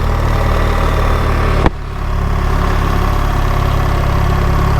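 BMW R 1300 GS boxer-twin engine running steadily at low speed, heard from the rider's position. A sharp click comes about a second and a half in, and the engine sound briefly drops quieter before building back up.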